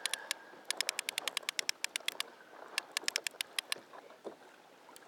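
Fishing reel clicking in quick runs of about ten clicks a second, stopping and starting several times, during the fight with a hooked mahi-mahi, with faint water in the background.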